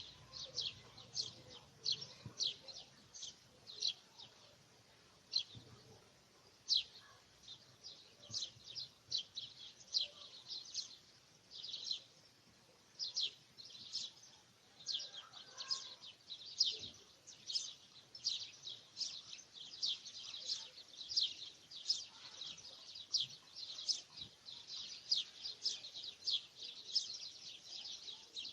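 Small birds chirping continuously: a steady run of short, high chirps, two or three a second.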